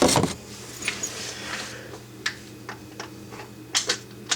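Hands working a drain hose and hose clamps under a sink: a loud rubbing thump at the start, then scattered light clicks and knocks, over a steady low hum.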